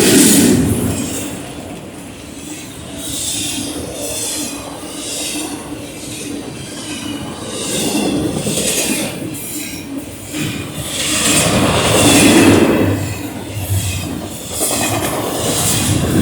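BNSF freight train rolling past at close range: a continuous rumble of cars on the rails under a steady hum, with high hissing and squealing from the wheels that swells and fades every second or two.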